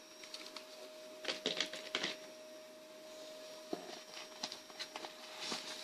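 Faint rustling and clicking of plastic packaging as model train coaches are handled, in scattered short bursts, over a faint steady hum.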